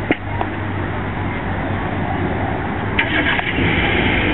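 A steady engine drone with a low hum, and a brighter rushing noise building from about three seconds in.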